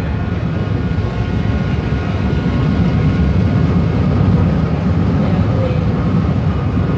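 Interior running noise of a Kinki Nippon Sharyo 1200 series light rail car in motion: a steady low rumble with a faint steady whine above it, growing a little louder midway.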